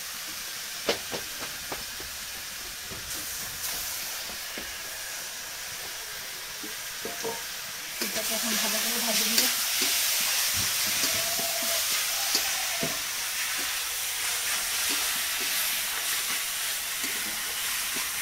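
Grated coconut and sugar stir-fried in a steel wok over a wood fire: a steady sizzling hiss with the scrape and knock of a spatula against the pan. The sizzle grows louder about eight seconds in, as the mixture fries towards light brown.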